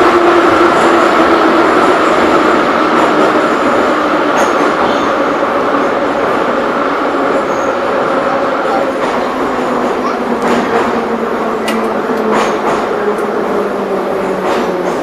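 Moscow Metro 81-717/714 train heard from inside the car, running with the motor and gear whine slowly falling in pitch as the train slows for the next station. A few sharp clicks come from the wheels and track in the second half.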